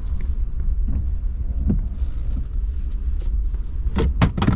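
Low, steady engine and road rumble heard from inside a moving vehicle, with a few sharp knocks in quick succession near the end.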